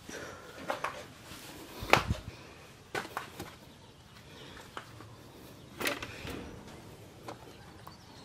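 A few scattered knocks and clatters over a quiet background, the loudest about two seconds in and another near six seconds.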